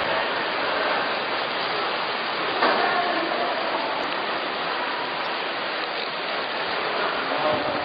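Steady rushing noise of heavy storm rain and wind during a tornado, with a brief jolt about three seconds in.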